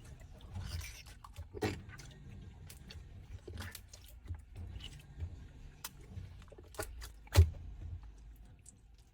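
Clear 'fake water' slime being handled, making scattered wet clicks and pops, the loudest about seven seconds in. Under it runs the low hum of a washing machine.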